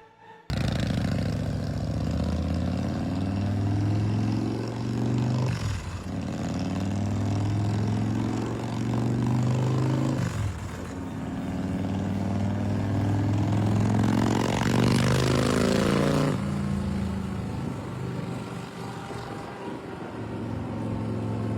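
Big Dog chopper's S&S 117 cubic-inch V-twin engine running and being revved, its pitch rising and falling, with two short dips about six and ten seconds in. The revving is strongest around fifteen seconds in, then drops back to a lower, steadier run.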